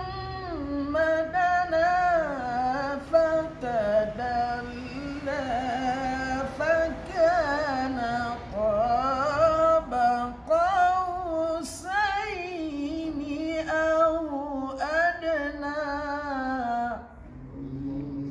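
Unamplified Quran recitation by a single high voice, chanted in a long melodic phrase with ornamented, wavering turns of pitch. It breaks off about 17 seconds in.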